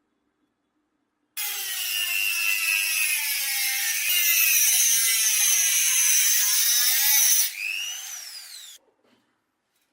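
Electric power tool motor starting abruptly and running under load on the workpiece, its pitch sagging and recovering. Near the end it frees up with a rising whine, then stops suddenly.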